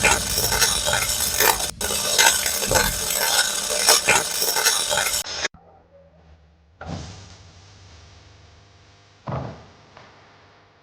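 Welding arc crackling and spitting on steel, cut off abruptly about halfway through. Soft background music with sustained tones and two gentle struck notes follows.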